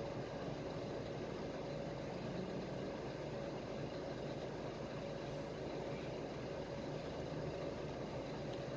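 Steady engine and running noise of a PAZ-320405-04 "Vector Next" bus heard from inside the passenger cabin: an even hum with a steady low drone and a faint steady whine, unchanging throughout.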